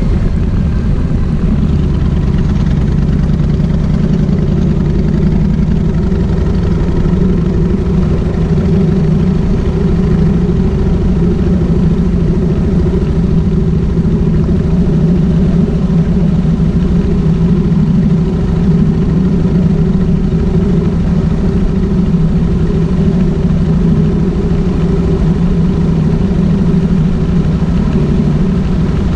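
Kawasaki VN1600 Mean Streak's V-twin engine running at a fairly steady pitch, with little change in revs.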